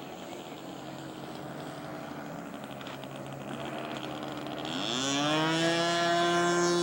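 Radio-controlled model airplane's small engine and propeller running at a steady pitch, then revving up about five seconds in, rising in pitch and getting louder, and holding at high revs.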